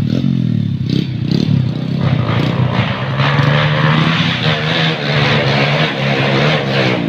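Motorcycle engine running during warm-up. It surges briefly a few times in the first couple of seconds, then runs at a steady speed.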